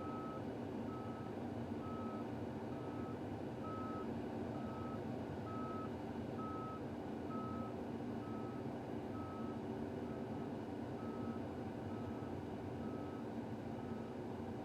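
Vehicle backup alarm beeping steadily, a single high tone about once a second, over a steady engine hum.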